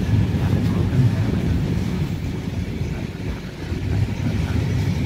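Vintage Wagons-Lits passenger carriages rolling past: a steady low rumble of wheels on the rails.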